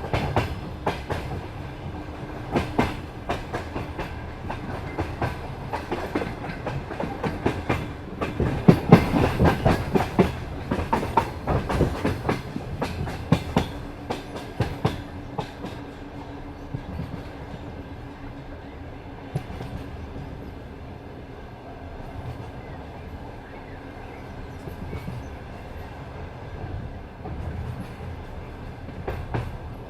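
Passenger train carriage wheels clattering over rail joints over a steady rolling rumble. A dense, louder run of clacks comes about a third of the way in, the clacks then grow sparse with a faint steady hum underneath, and they pick up again near the end.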